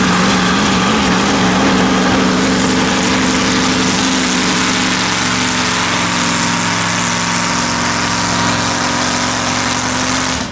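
Mini modified B class pulling tractor's engine running steadily and loud, its pitch holding nearly level.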